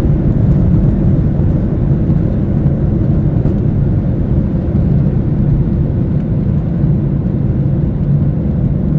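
Steady low engine and air noise inside an airliner's cabin as it climbs after takeoff.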